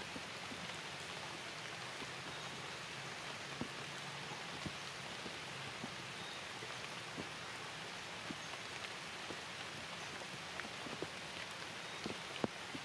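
Steady rain falling, with scattered individual drops tapping sharply on surfaces at irregular moments; the loudest tap comes near the end.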